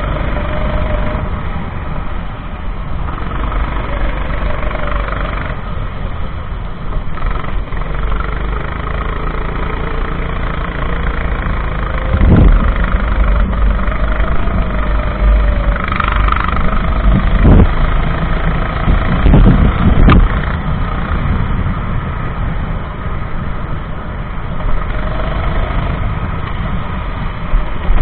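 Racing kart engine running at speed, its pitch rising and falling slowly as it speeds up and slows through the corners, over a heavy low rumble. There are a few short, loud thumps in the middle.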